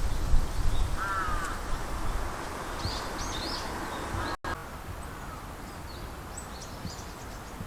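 Wild birds calling outdoors over a steady low background rumble: one short harsh call about a second in, then a few thin high chirps around the middle and again later. The sound drops out for an instant a little past halfway.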